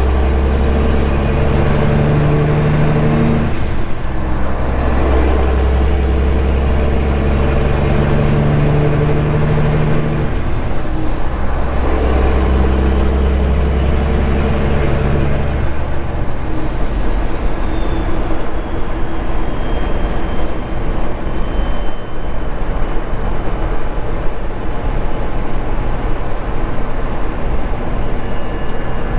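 Straight-piped Caterpillar 3406E diesel truck engine pulling hard through the gears. The turbo whistle climbs high with each pull and drops away at two gear changes, about four and eleven seconds in. From about sixteen seconds on it settles into a steady cruising drone.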